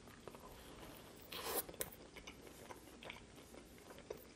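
Biting into and chewing a barbecue chicken sub with crispy onions and lettuce, close to the microphone: one louder crunch about a second and a half in, then soft chewing with small moist clicks.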